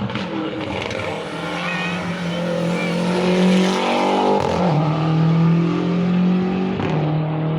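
Rally car engine accelerating hard under full throttle. The revs climb and then drop at two upshifts, one about halfway through and one near the end.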